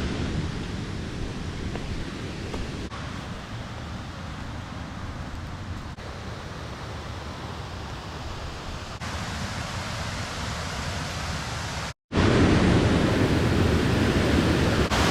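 Steady rush of falling water from a waterfall, heard in several short joined clips, louder from about twelve seconds in.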